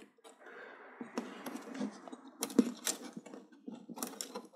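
Scattered light clicks and knocks of television parts and cables being handled during reassembly, with a few sharper ticks in the second half.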